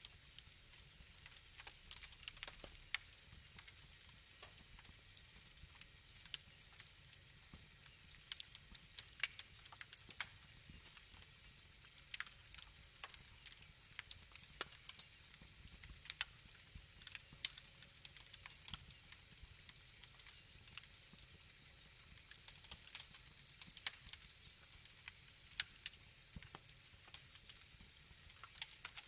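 Wood fire crackling quietly: irregular sharp snaps and pops, several a second at times, over a faint low hiss.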